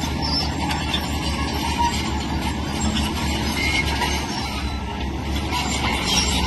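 Heavy tracked earthmoving machine at work: steel crawler tracks clanking and rattling over a steady diesel engine rumble.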